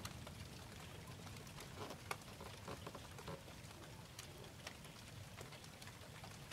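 Faint steady rain, with scattered individual drops ticking sharply on surfaces.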